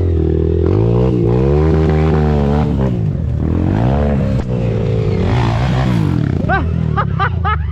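Dirt bike engine revving up and down repeatedly on a trail ride, the pitch rising and falling several times.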